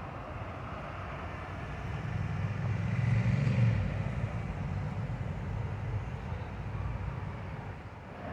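Road traffic: cars running past steadily, the sound swelling as a vehicle passes closer about three seconds in.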